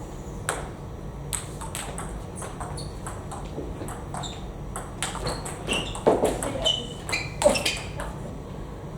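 Table tennis rally: a celluloid-type ball clicking sharply and irregularly off rubber paddles and the table, with a few louder knocks and some short high squeaks midway through.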